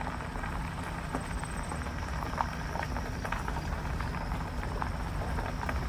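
Vehicle driving slowly over rough ground: a steady low rumble with scattered clicks and rattles.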